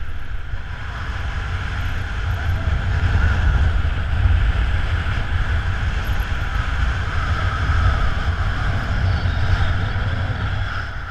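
Wind rushing over the microphone of a paraglider in flight: a loud, steady rumble that swells in the middle and eases near the end.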